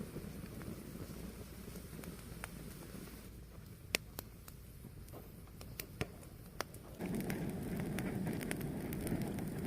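Fire burning with a steady low rush and scattered sharp crackles and pops, a cluster of them in the middle. About 7 s in, the rush gets suddenly louder.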